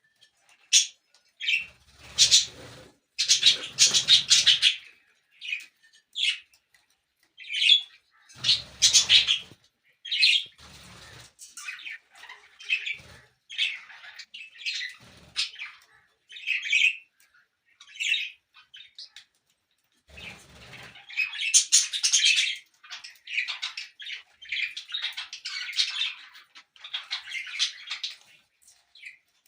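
Australian parrots chirping and squawking in many short, high calls, with a few louder rustling bursts mixed in.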